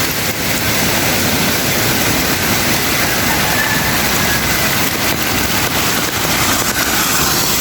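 Heavy rain and floodwater running over a road, a steady, loud rush of noise.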